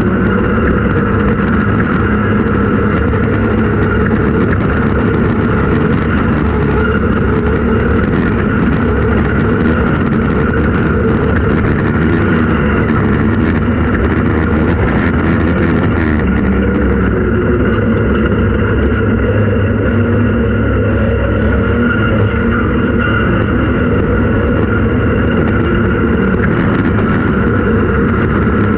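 Off-road race vehicle's engine running loud and steady, with no let-up, under continuous driving.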